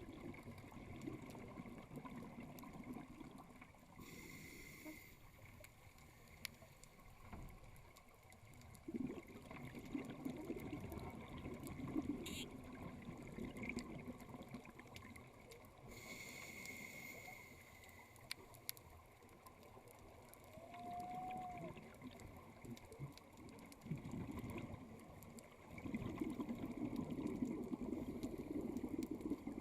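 A scuba diver breathing through a regulator, heard underwater. Two inhalations come as short hisses with a thin whistle, about 4 and 16 seconds in. Between them are long bubbling rumbles of exhaled air, loudest near the end.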